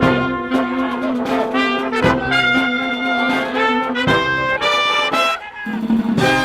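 Live brass band music, trumpets and trombones playing sustained chords over a held low note, with accented beats about every two seconds and a brief break near the end.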